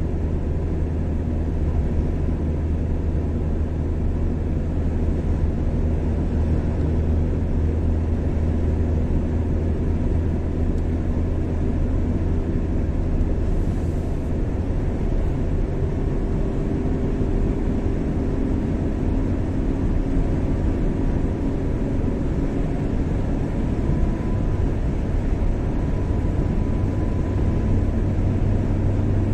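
Car driving steadily on a highway: a constant low engine hum with tyre and road noise.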